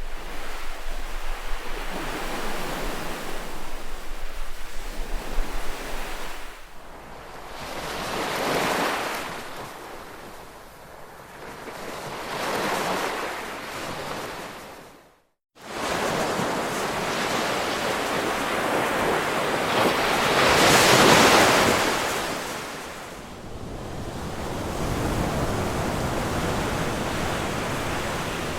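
Ocean surf: waves break and wash in, swelling and fading every few seconds. A little past halfway the sound cuts out abruptly for a split second, then resumes.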